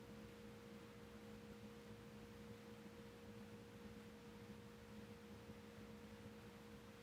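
Near silence: a faint, steady two-tone hum over low background hiss.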